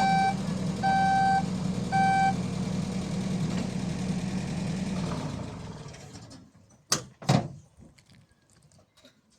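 A vehicle's reversing alarm beeping about once a second over its running engine. The beeps stop after about two seconds, the engine fades out about five seconds in, and two sharp knocks follow a little later.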